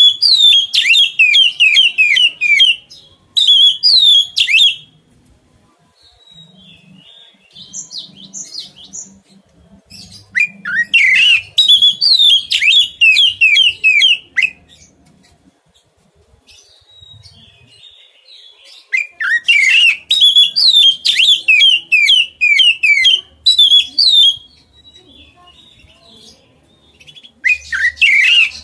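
A songbird singing in loud bouts of fast, repeated down-slurred chirps. Each bout lasts a few seconds and is followed by a pause. There are about five bouts.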